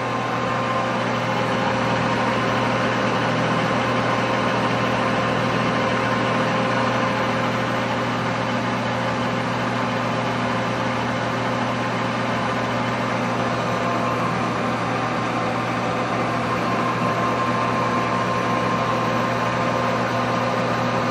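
Turn-Pro 14-40 gear-head engine lathe running steadily under power, its gear-driven headstock giving a constant hum with steady higher tones.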